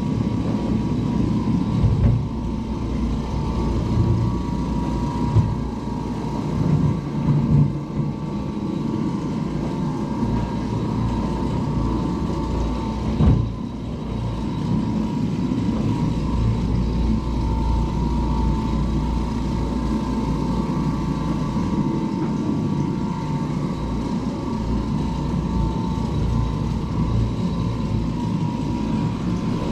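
Oreck Orbiter orbital floor machine running steadily, buffing pre-sprayed carpet in low-moisture cleaning, with a constant motor hum and a few brief louder bumps as it is worked over the floor.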